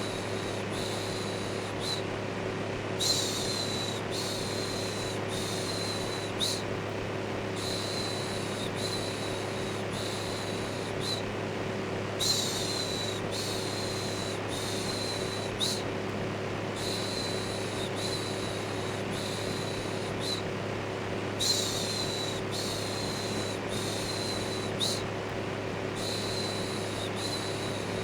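Electric fan running steadily with a low hum, under a looped human "shhh" shushing. The shushes come as hissing strokes of about a second each, in runs of three or four with short pauses between runs.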